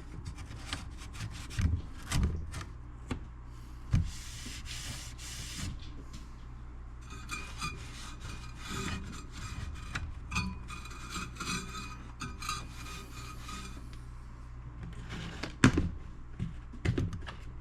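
Scrubbing and wiping grime off the heat sink and inner metal frame of an old stereo receiver: a continuous scratchy rubbing, broken by scattered light clicks and knocks.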